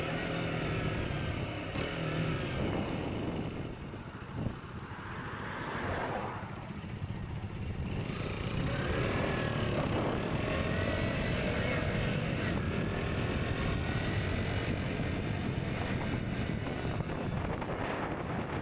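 KTM Duke 125's single-cylinder engine through an Akrapovic exhaust while riding. It eases off about four seconds in, then revs back up with rising and falling pitch and pulls steadily through the gears.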